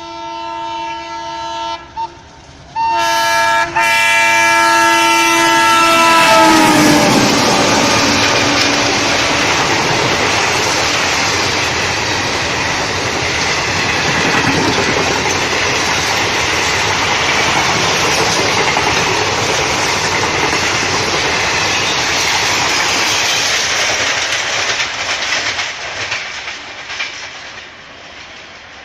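Train horn sounding as a multi-tone chord, cut off briefly twice, its pitch dropping as the train passes about six seconds in. The horn gives way to the loud, steady rush and clatter of a fast train going by, which fades near the end.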